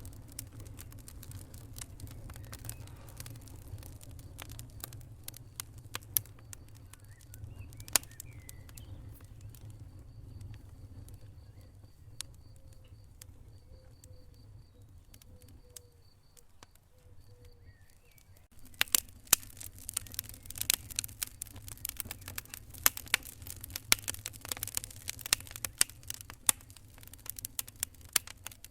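Wood fire burning in a fireplace: a low rumble of flames with scattered sharp pops, turning suddenly into dense, louder crackling about two-thirds of the way in.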